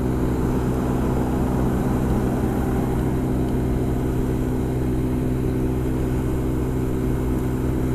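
Honda SH300i scooter's single-cylinder engine pulling hard at a steady pitch at motorway speed, under steady wind and road noise.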